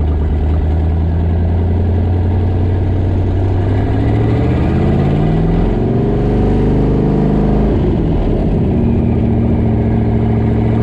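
Twin-turbo Ford small-block V8 running under way. About three seconds in its pitch rises steadily for some four seconds, falls away sharply near eight seconds, then settles to a steady run.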